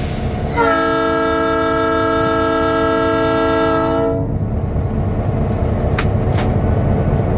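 Locomotive air horn sounding one long chord of several notes, starting about half a second in and cutting off after about three and a half seconds, a warning for a road crossing. A low rumble of the train runs underneath, with two short clicks near the end.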